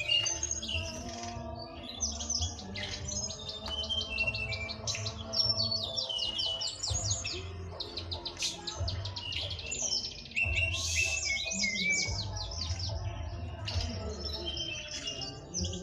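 Brown-chested jungle flycatcher (sikatan rimba dada coklat) singing continuously in full song, with rapid runs of high chirps and trills and brief pauses between phrases.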